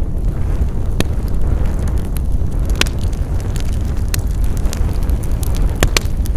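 Wood fire burning with a steady low rumble, and irregular sharp crackles and pops from the burning wood, a few of them louder.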